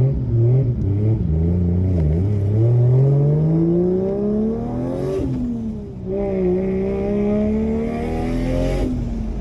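Turbocharged 1JZ-GTE straight-six in a Toyota Soarer, breathing through a custom 3-inch exhaust with dual tips, accelerating hard: the revs climb steadily, drop at a gear change about five seconds in, climb again and drop once more near the end.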